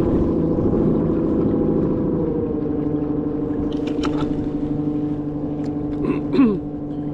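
Haswing W40 electric kayak motor running with a steady hum over water noise; its pitch drops slightly about two seconds in as it is turned down from top speed. A brief falling squeak-like sound near the end.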